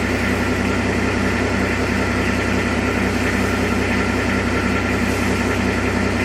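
Diesel engine of a Kubota farm machine running steadily at a constant low speed.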